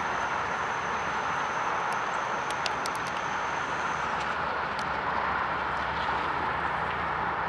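CSX autorack freight train rolling past: a steady rumbling rush of steel wheels on rail, with a few short sharp clicks about a third of the way in.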